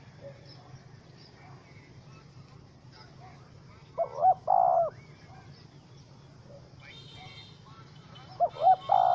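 Spotted dove cooing: two calls about four seconds apart, each two short notes followed by a longer one, over a steady low hum.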